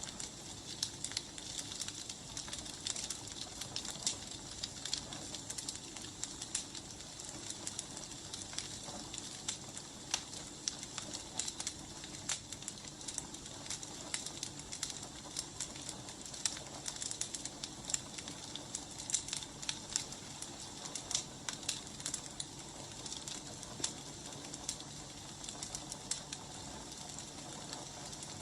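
Wood fire burning: irregular snaps and pops over a steady hiss.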